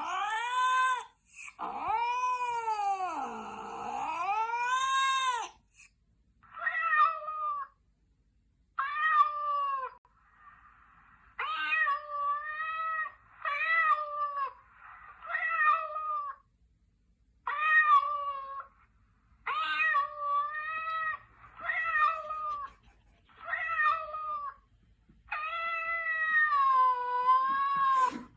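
Recorded angry cats caterwauling. A long, wavering yowl fills the first few seconds. A string of shorter rising-and-falling yowls follows about every two seconds, and another long yowl comes near the end.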